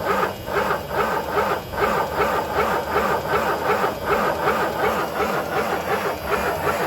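Starter cranking the Mack B-21's Hall-Scott 1091 six-cylinder engine over without it catching, an even rhythmic churn of about four to five compression strokes a second. The engine is not yet getting enough fuel to fire.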